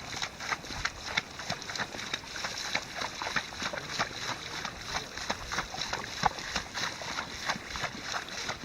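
A horse wading through a shallow rain-filled pond, its legs and hooves splashing and sloshing in the water in a quick, irregular run of small splashes.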